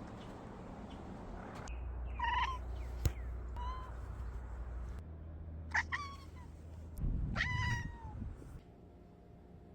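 A cat meowing four times, short meows with a few seconds between them, the last the longest.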